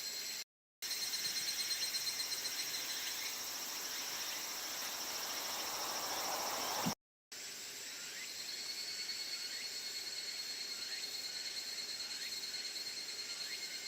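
Outdoor insect chorus: insects chirring steadily in several high pitches at once. It is broken twice by a sudden moment of total silence.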